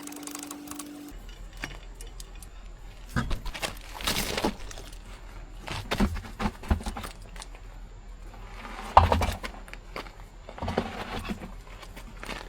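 Scattered metal clinks and knocks of hand tools working on a car's wheel and brake assembly, over a low steady hum. The sharpest knock comes about nine seconds in.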